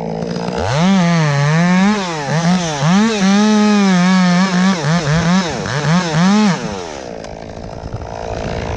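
Chainsaw revved up and cutting wood, its engine pitch rising and dipping repeatedly as it bogs under load in the cut, then dropping back to idle about seven seconds in.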